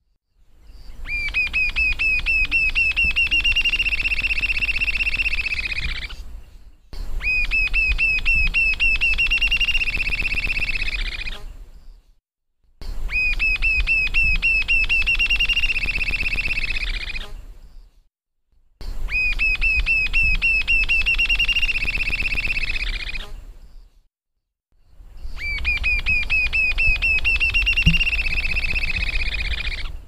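A bird singing in rapid series of high, upslurred whistled notes. Each phrase lasts about five seconds and fades at its end, and it repeats five times with short silent gaps like a looped recording. A low hum lies under it.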